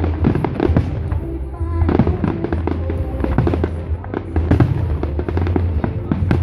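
Fireworks display going off: a dense run of bangs and crackles, many a second, over music playing through loudspeakers.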